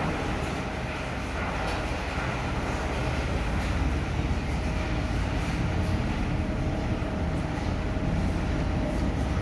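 Steady low mechanical rumble with a faint steady hum, running evenly throughout.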